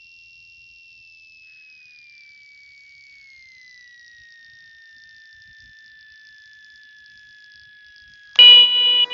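A faint, thin high whine slides slowly down in pitch and then holds steady. Near the end a loud, buzzing horn tone starts abruptly and is cut briefly: the Cessna 182N's stall warning horn sounding in the landing flare.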